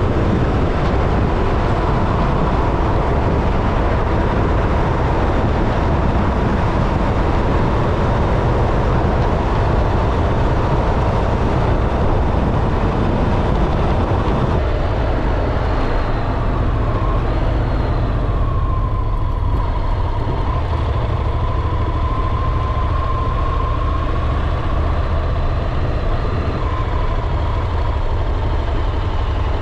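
Honda NC750X motorcycle riding at road speed: steady wind and road noise over a low engine rumble. About halfway through the hiss thins out, leaving the low rumble and a faint wavering whine.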